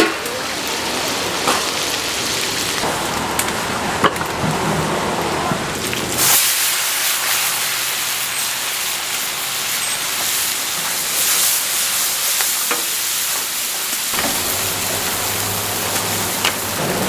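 Seafood and egg fried noodles sizzling and being stirred in a hot pan, with a few sharp clicks of the metal utensil. About six seconds in, the sizzle turns brighter and hissier for several seconds, then settles back.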